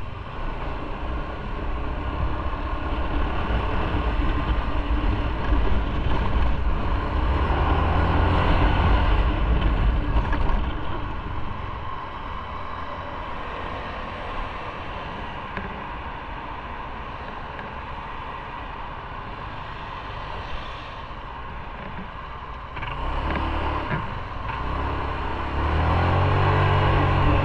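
Motorcycle engine running under way, with road and wind noise. It pulls harder early in the stretch, eases off in the middle, then picks up again, its note rising near the end as the bike accelerates.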